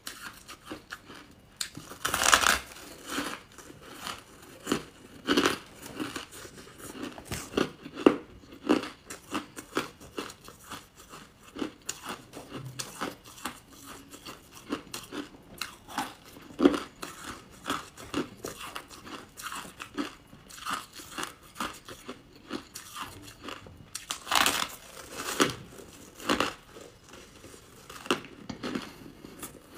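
Close-up crunching and chewing of crunchy buckwheat chunks: crisp bites with a run of loud crunches about two seconds in and again near the end, and quieter chewing crunches between.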